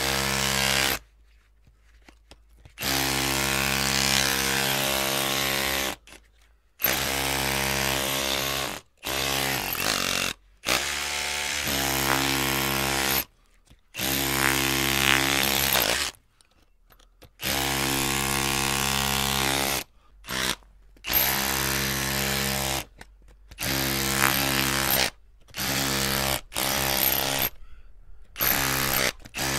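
Electric drill run in repeated trigger bursts of about half a second to three seconds each, its motor whining at a steady pitch, with short silent gaps between. One burst near the middle winds up and down in pitch.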